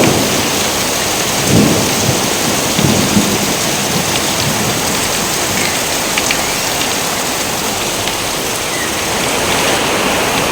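Steady, dense rain with thunder rumbling in the first three seconds, then rain alone.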